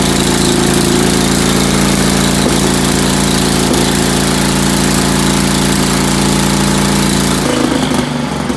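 Ford tractor's carbureted engine idling steadily through its muffler, running smoothly with the low-speed carburetor needle newly adjusted. The steady engine note breaks off abruptly near the end.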